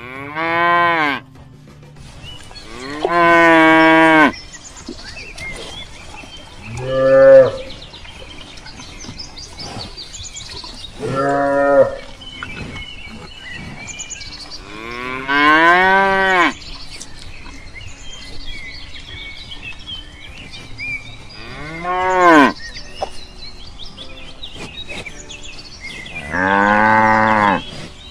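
Cows mooing: seven separate moos a few seconds apart, each one long call that swells and arches in pitch.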